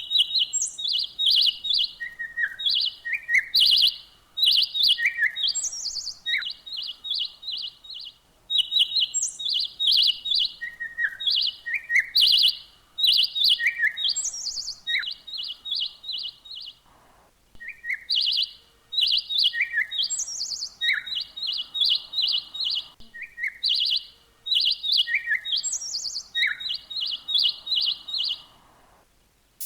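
Songbird chirping in quick runs of short, high notes, mixed with higher notes that slide downward and a few lower notes, with brief pauses between phrases.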